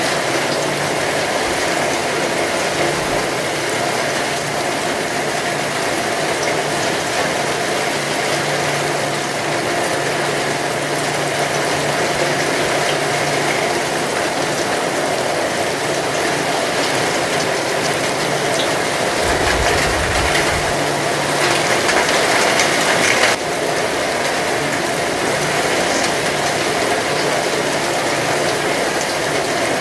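Heavy rain falling steadily, a dense crackling hiss of drops. A brief low rumble comes about two-thirds through, and the sound swells slightly before dropping back suddenly a little past three-quarters through.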